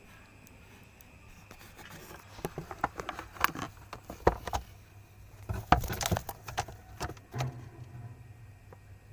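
A rapid, irregular run of light clicks, knocks and rustles, starting about two seconds in and stopping about seven and a half seconds in, loudest in the middle.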